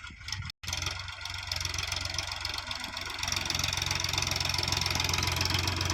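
Heavy diesel engine running steadily, getting louder about three seconds in.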